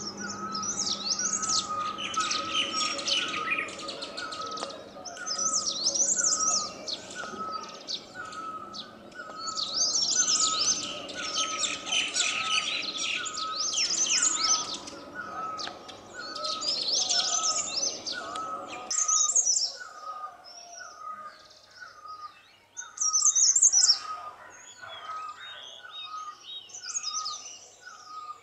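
Wild birds singing and calling. One bird repeats a short note about one and a half times a second, and bursts of high, chittering chatter come every few seconds.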